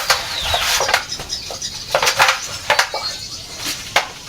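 Utensils and dishes clinking and knocking together in irregular sharp clinks, some with a short ring, as the chicken marinade is prepared.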